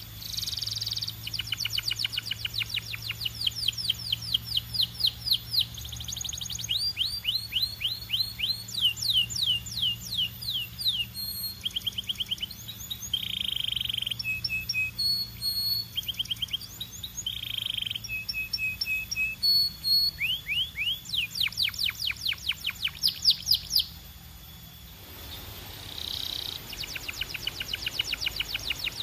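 Canary singing a long song of fast trills, each a rapid run of short falling notes, changing from one trill to the next, with a short break near the end before it starts again. A steady low hum lies underneath.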